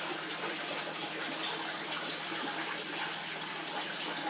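Steady running and splashing aquarium water, with a faint steady hum beneath it.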